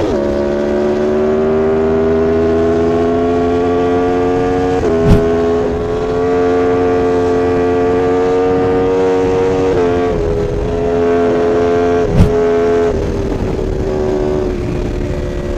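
Sport motorcycle engine running hard at high revs, its pitch climbing slowly as it accelerates, with gear changes about five and ten seconds in. Two sharp pops, about five and twelve seconds in, are the loudest moments.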